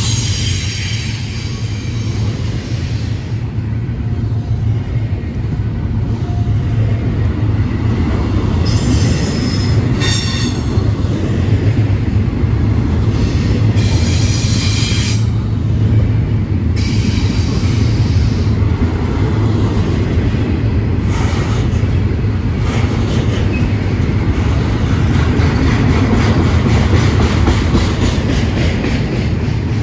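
Intermodal freight train's double-stack well cars rolling past close by with a steady low rumble. Brief high-pitched wheel squeals come and go, about ten and fourteen seconds in.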